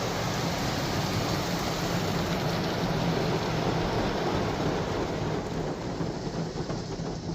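Water spray from an Istobal M'Wash 3 touchless car wash rinsing a car: a steady, rain-like hiss of water hitting the body, easing a little near the end. The rinse pass may be the spot-free rinse.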